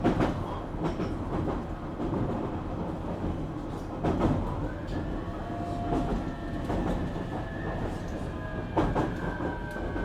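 JR Kyushu 817 series electric train heard from inside the car, running with wheel clicks over rail joints. About halfway through, a set of motor whine tones comes in and slowly falls in pitch. This unit is known for an unusual motor sound, likened to a Keio 7000 series.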